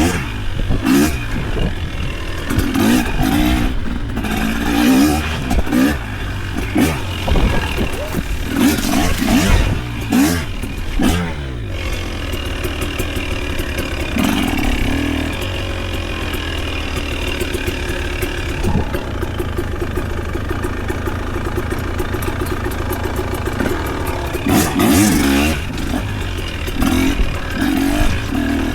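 A vehicle engine running, its pitch rising and falling as it revs up and eases off, with some clattering knocks.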